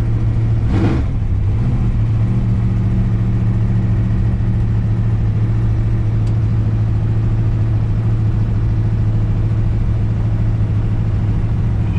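Car cruising at a steady speed, a constant low engine and road drone, with a brief rush of noise about a second in.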